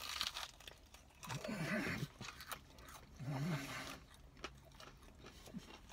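A man chewing a mouthful of heavily breaded fried chicken tender, with soft crunching and mouth clicks. He gives two short low hums with his mouth full, about a second and a half in and again about three seconds in.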